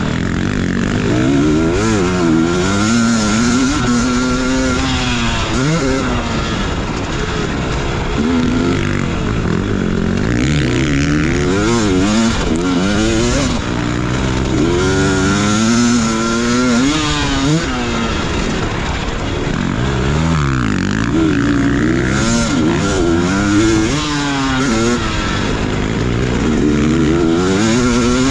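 Dirt bike engine revving hard and easing off over and over as it is ridden round a motocross track. The pitch climbs, drops and climbs again every few seconds.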